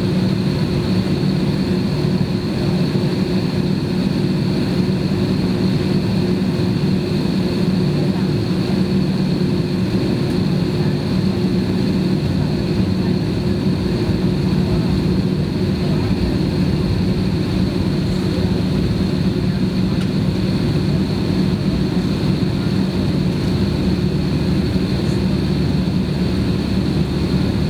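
Steady jet-engine and airflow drone inside the cabin of an Airbus airliner near a window, with a few constant hum and whine tones over a low rush and no change in pitch.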